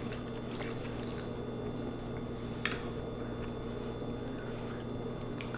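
Quiet mouth and utensil sounds of someone eating: soft wet smacks and a few faint clicks, one sharper click about two and a half seconds in, over a low steady hum.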